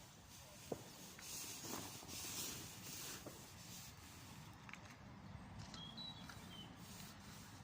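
Faint rustling and handling noise with a single sharp click under a second in, and a few brief high chirps about six seconds in.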